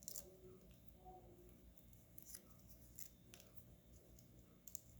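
Near silence with a few faint, light clicks and ticks of paper card stock being handled and pressed into place.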